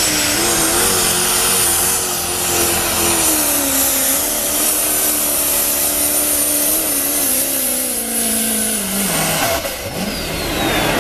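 Diesel 4x4 super pulling truck running hard at high revs, with a high turbocharger whistle over the engine note. Engine note and whistle both drop in pitch over the last few seconds as the throttle comes off at the end of the pull.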